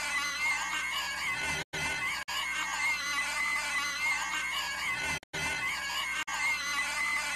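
Cartoon character's inhuman, shrill screeching wail. A clip of a few seconds is looped over and over, with a brief drop to silence at each splice, twice in this stretch.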